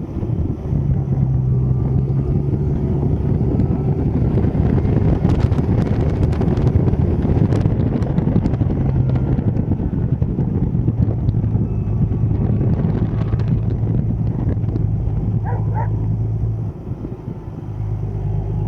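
Deutz-Fahr 6160 TTV tractor's diesel engine running with a steady drone. Scattered clicks and rattles come over it in the middle, and it eases off briefly near the end before picking up again.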